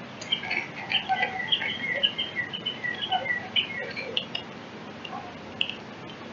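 Small songbird chirping: a quick run of short, high, slurred notes for about four seconds, then a few scattered notes.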